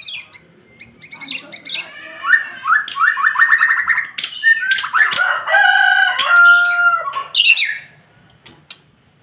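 A murai (a Copsychus songbird) singing a loud, varied song of whistles and sharp notes. About two seconds in comes a fast run of rising notes, then held whistles, and the song stops about eight seconds in.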